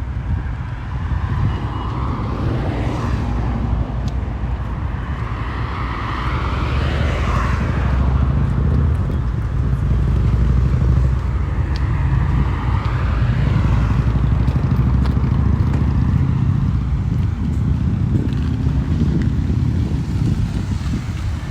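Road traffic passing, with a few vehicles swelling and fading one after another, over a heavy steady low rumble of wind on the microphone.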